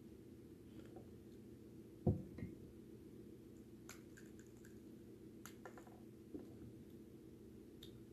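Someone eating a pomegranate: scattered soft clicks and small crunches, with one dull thump about two seconds in, over a steady low hum.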